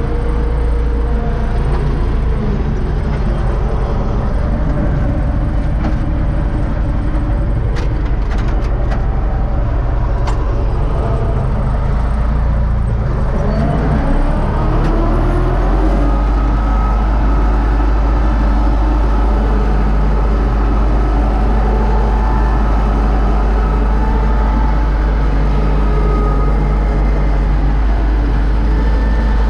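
UTB Universal 650 tractor's four-cylinder diesel engine running steadily, revving up about halfway through and then holding the higher speed. A few light clicks sound shortly before the rev.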